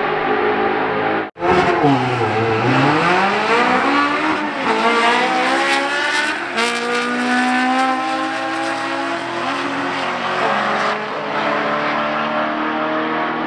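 Car engine accelerating hard on a drag-strip run, revs climbing and dropping back twice at gear changes. The sound cuts out abruptly for an instant about a second in.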